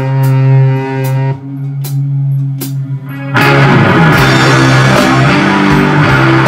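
Electric guitar holding a long sustained low note over light, evenly spaced cymbal ticks, then about three and a half seconds in the guitar and drum kit crash in together for a loud rock passage.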